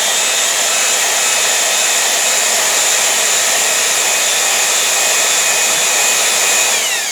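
Electric drill spinning a cylinder hone in the bore of a 1977 MGB engine block: a loud, steady whir with the stones scraping the cylinder wall, falling in pitch as the drill winds down near the end.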